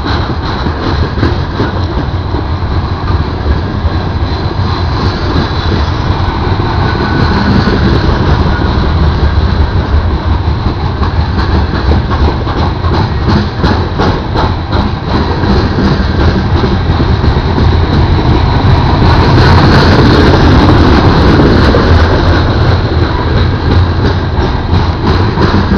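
Slow Union Pacific freight train rolling past: a steady rumble of the cars with repeated clicks of wheels over the rail joints, swelling briefly about twenty seconds in.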